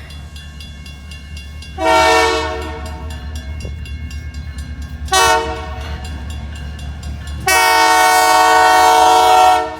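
Canadian Pacific locomotive's multi-chime air horn sounding three blasts, a medium one about two seconds in, a short one about five seconds in and a long one near the end, over the steady low rumble of the approaching train. The blasts fit the end of the long-long-short-long grade-crossing signal.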